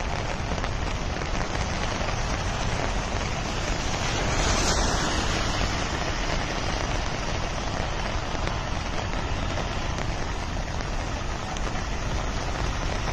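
Steady rushing noise of heavy rain and falling water, even throughout, swelling slightly about four seconds in.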